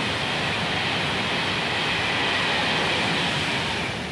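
Train passing through the railway cutting: a loud, steady rush of noise that starts suddenly and dies away near the end.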